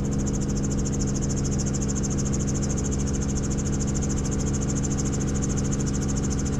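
Helicopter in flight heard from inside the cabin: a steady drone from the engine and rotor, with a fast-pulsing high whine above it.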